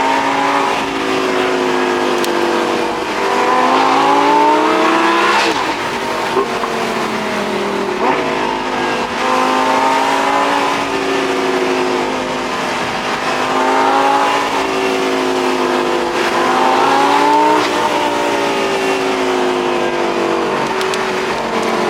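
A sports car engine is accelerating hard through the gears. Its pitch climbs and then falls back at each shift, several times, with steadier cruising in between.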